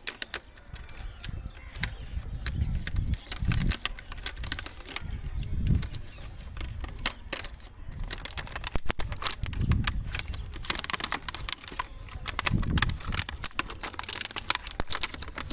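Toy packaging being opened and handled: cardboard and plastic rustling and crinkling, with many small clicks and soft knocks.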